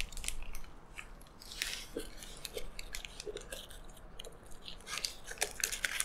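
A person biting into and chewing a mouthful of double cheeseburger: irregular short mouth clicks and smacks, busiest around the middle and again near the end.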